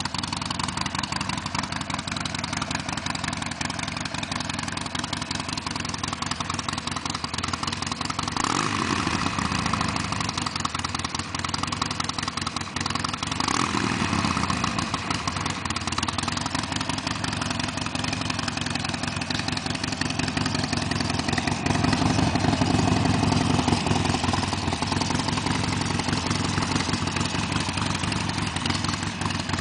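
The 1200 cc V-twin of a Harley-Davidson Sportster XL1200L, running through a Screaming Eagle II exhaust. It idles steadily, is revved sharply twice (about 8 and 13 seconds in), settling back to idle each time, and runs a little louder for a few seconds past the middle.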